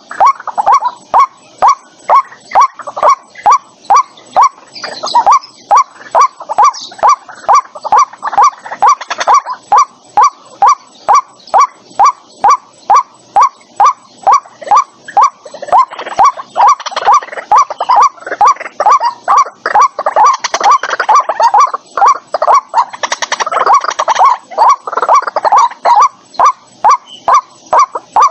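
White-breasted waterhen calling: a long, steady run of short, evenly repeated notes, about three a second, with a rougher stretch of overlapping calls past the middle. It is a decoy call recording meant to lure waterhens to a trap speaker.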